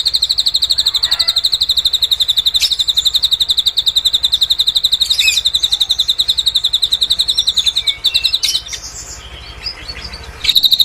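A srigunting (drongo) singing a long, fast, even high-pitched trill, a phrase mimicking cililin song. The trill breaks off about eight and a half seconds in, with a few short chirps in the gap, and starts again near the end.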